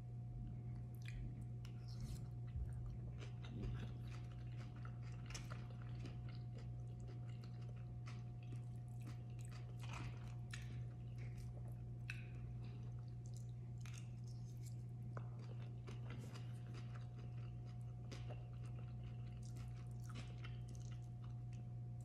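Close-miked chewing of a rice bowl with chicken, slaw and avocado: many small sharp mouth clicks throughout, with a plastic fork now and then scraping the bowl. A steady low hum runs underneath.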